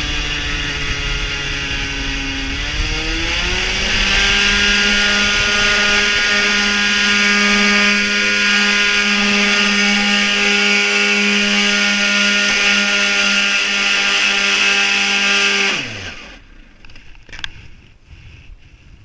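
Yamaha TZR's two-stroke engine running, rising in pitch about three seconds in as it picks up speed, then holding a steady high pitch; near the end it cuts out, its pitch falling away quickly to near quiet.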